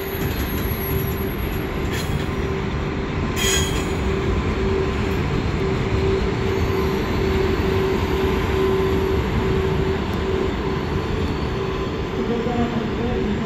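Passenger train running past close by: a steady rumble of wheels on rails with a constant hum, and two brief high-pitched wheel squeals about two and three and a half seconds in. Near the end, further pitched tones join in.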